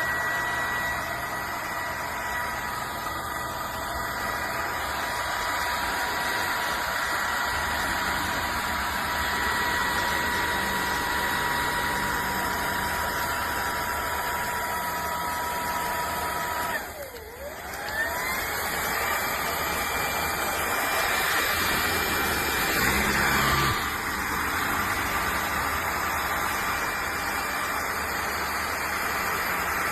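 Bissell PowerClean upright vacuum cleaner's 200 W motor running with a steady whine. About 17 seconds in, its pitch drops sharply as the motor winds down, then spins back up to speed, and it is briefly louder a few seconds later.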